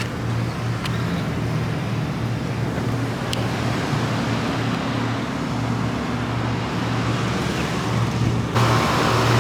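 Steady low vehicle-engine and traffic rumble with a faint pulsing hum; the background changes abruptly near the end.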